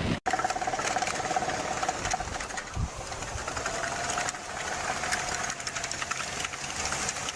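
A machine running steadily with a fast, fine ticking or clatter and a faint steady whine.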